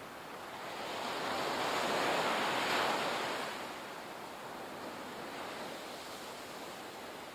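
Ocean wave breaking on the shore: a rush of surf that swells about a second in, peaks, and fades back to a steady hiss of water a few seconds later.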